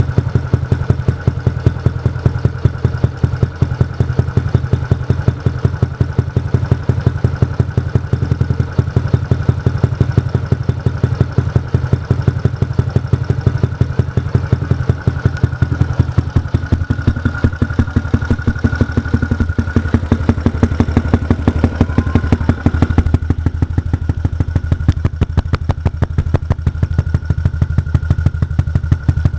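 Yamaha Jupiter MX 135's single-cylinder four-stroke engine idling through an R9 aftermarket exhaust silencer, a steady, even run of exhaust pulses.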